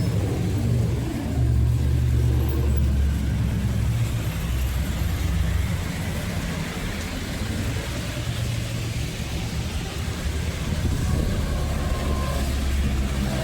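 A motor vehicle running: a steady low rumble that grows louder about a second in and again near the end.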